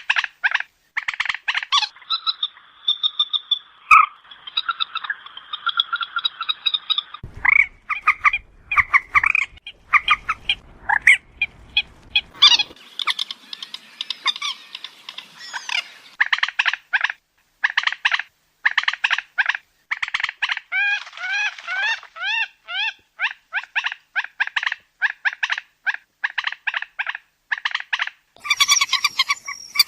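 Moorhen calling: rapid runs of short, clipped notes repeated over and over. A stretch of longer, steadier notes comes about two seconds in, and the calls grow denser and louder near the end.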